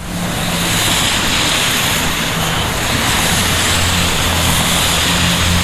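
Loud, steady rush of wind over the microphone and tyre hiss on wet ground as an Inmotion V14 electric unicycle rides through the rain, with a faint low hum underneath. The rush starts abruptly as the ride picks up speed.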